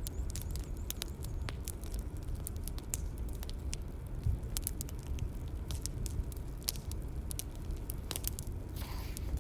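Bonfire crackling: irregular sharp pops and snaps of burning wood over a steady low rumble. A brief soft rustle comes near the end.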